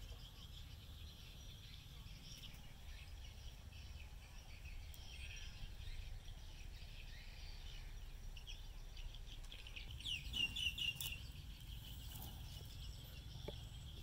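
Birds chirping in short calls over a steady low rumble, with a louder run of quick chirps about ten seconds in.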